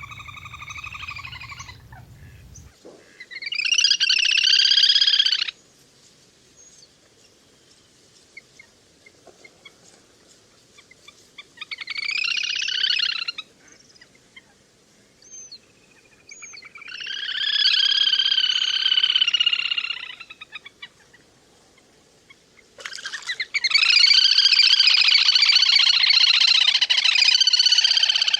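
Little grebe calls: five bouts of high trilling calls, from one to a few seconds long, separated by pauses. The last and longest bout begins about two-thirds of the way through and carries on.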